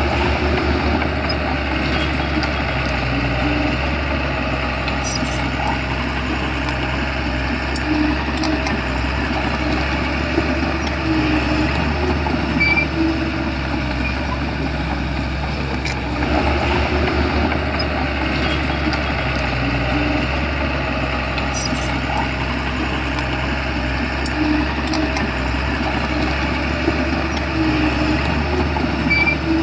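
Shantui bulldozer's diesel engine running steadily under work, with occasional mechanical clicks and clanks.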